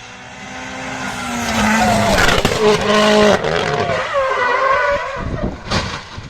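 Rally car engine revving hard, its pitch rising and dropping through gear changes as it grows louder, with a sharp burst of noise near the end.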